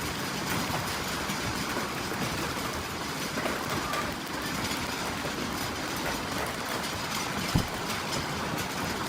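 Steady rushing storm noise, with one dull thump about seven and a half seconds in.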